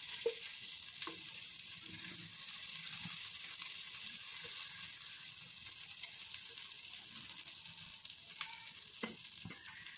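Butter melting in a hot frying pan, sizzling as a steady hiss with a few light clicks, easing slightly near the end.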